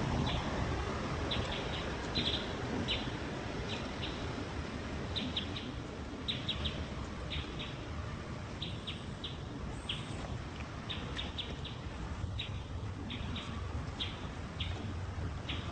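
Birds chirping: short, high, downward chirps repeating irregularly, a few a second, over a steady low rumble.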